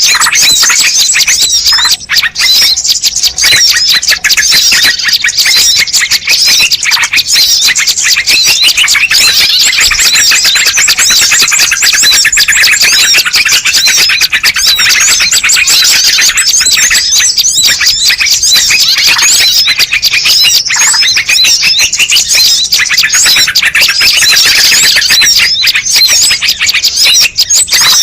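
Bird-lure recording: a dense, unbroken chorus of rapid high chirps and twitters from many small birds calling at once, meant to draw wild birds in.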